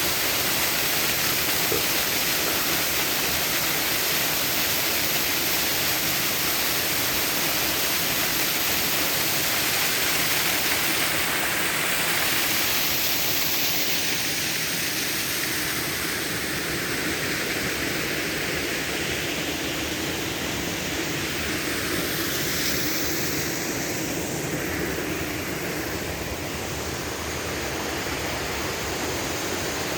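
Waterfall: water pouring over rocks in a steady, unbroken rush, easing a little about halfway through.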